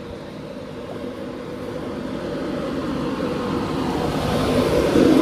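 Passenger train drawing into the station, its rumble and hum growing steadily louder.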